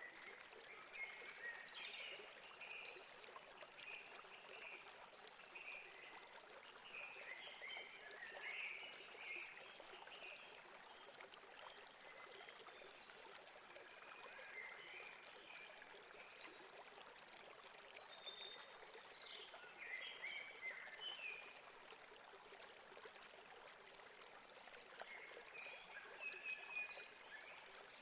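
Faint, steady rush of a flowing stream, with small birds chirping in short bursts of quick calls, in clusters near the start, around the middle and near the end.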